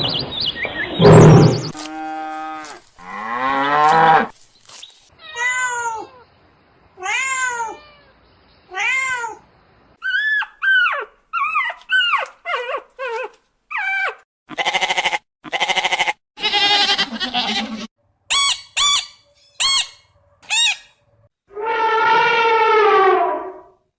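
A string of separate animal calls: several pitched cries that rise and fall, then a run of short noisy calls and clicks, and one longer pitched call near the end.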